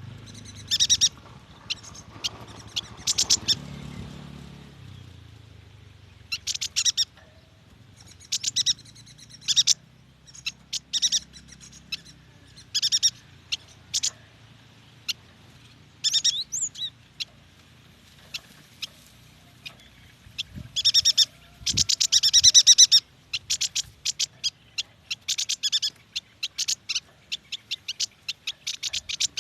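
Yuhina singing: short bursts of high, quick chirps repeated again and again. About two-thirds of the way through comes a loud, fast run of chattering notes, and rapid notes keep coming near the end.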